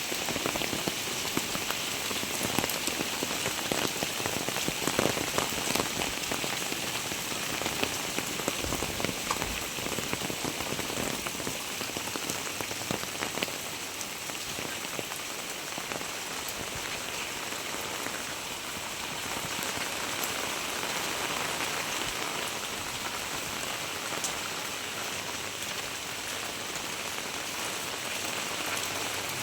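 Very heavy rain falling: a dense, steady hiss full of close, sharp drop impacts, a little louder and busier for about the first half.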